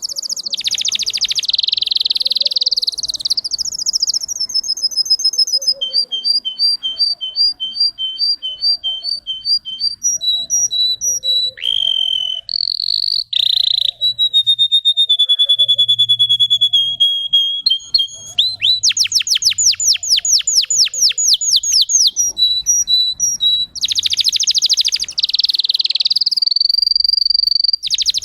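Domestic canary singing a long unbroken song: rapid trills and strings of repeated notes, a long steady held note near the middle, then a run of fast sweeping rolls.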